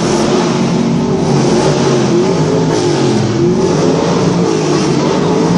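NASCAR stock car engines running loudly, several overlapping engine notes rising and falling a little as they are revved.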